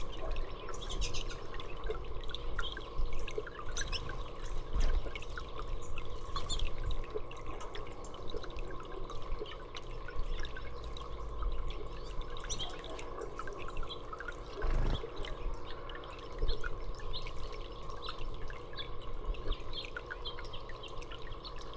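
Water dripping and trickling steadily, with scattered small bird chirps and a low steady hum underneath.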